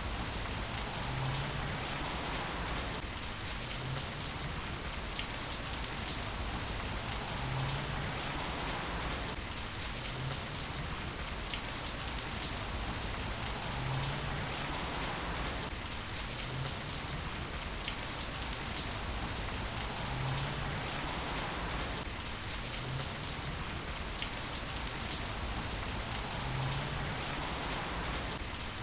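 Heavy rain falling steadily, with scattered drops ticking sharply through the hiss. The same pattern of sound repeats about every six seconds.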